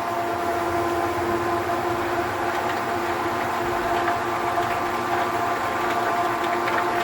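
Electric water pump running just after being primed: a steady whining hum at one unchanging pitch over a rushing hiss, as it draws water and starts to build pressure.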